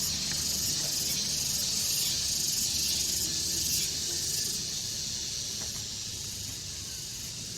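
Steady, high-pitched hiss of an insect chorus, easing a little about halfway through.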